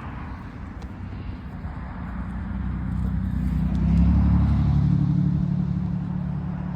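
Low engine rumble of a motor vehicle, swelling about three seconds in and fading again near the end, as of a vehicle passing by.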